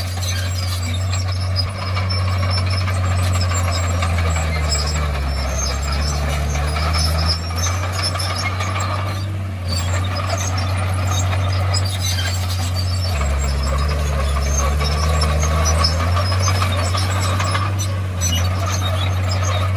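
Komatsu D51PX bulldozer's diesel engine running steadily, its note dropping and changing twice for a few seconds each time as the load on it changes.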